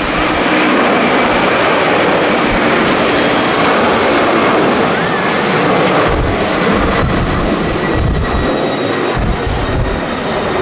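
Jet airliner engines running as a steady, loud wash of noise, with gusts of strong wind buffeting the microphone now and then.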